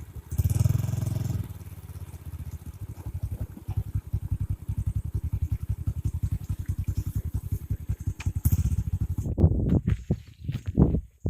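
Small motorcycle engine running at low speed with an even, rapid putter, louder for about a second near the start. Near the end the putter gives way to irregular knocks and rustles.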